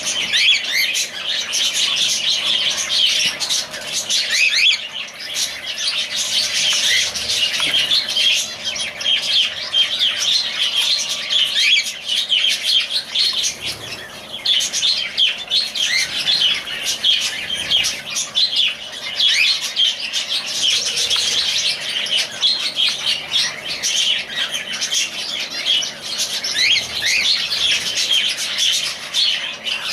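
A group of lovebirds chirping continuously, many short high calls overlapping.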